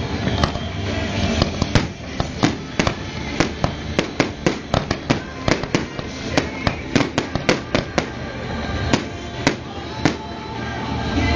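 Fireworks going off in a rapid, irregular string of sharp bangs and cracks, several a second and thickest in the middle, over music playing underneath.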